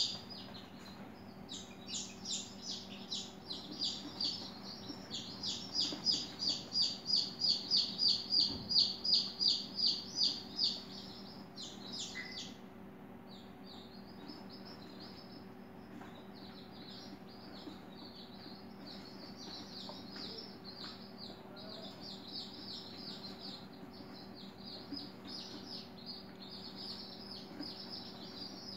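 Small birds chirping: rapid high chirps, about four or five a second, loud for the first ten seconds or so, then fainter and more continuous. A steady low hum runs underneath.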